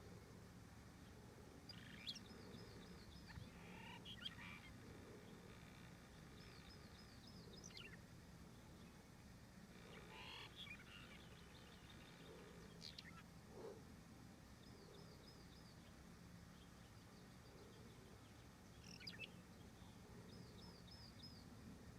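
Phainopepla singing faintly: scattered short, sharp chirps and quick sweeping notes every few seconds, with brief runs of rapid repeated notes.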